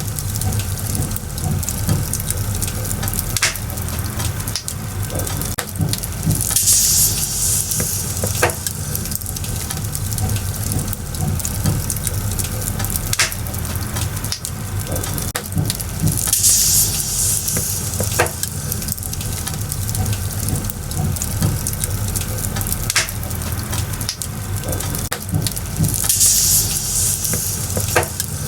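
Firewood burning in an open fire, crackling with scattered sharp pops over a low steady rumble. A brief hissing surge recurs about every ten seconds.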